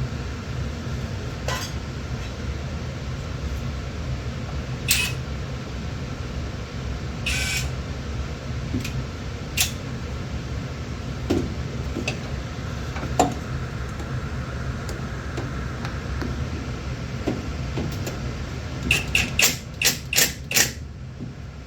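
Scattered metallic clicks and clinks of hand tools working an engine-mount bolt, over a steady low hum. Near the end comes a quick run of about six sharp clicks.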